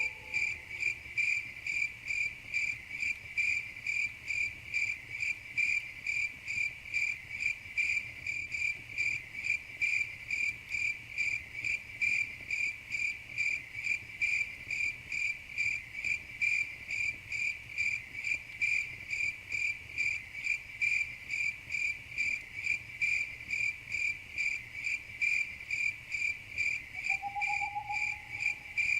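Crickets chirping in a steady high-pitched pulse, about two chirps a second, with a brief lower tone near the end.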